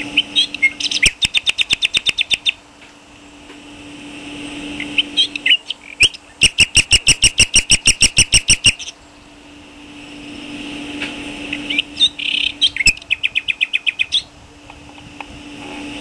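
A bird singing in three runs of rapid, evenly spaced high notes, about eight to ten notes a second, each run lasting about two seconds, with a steady low hum underneath.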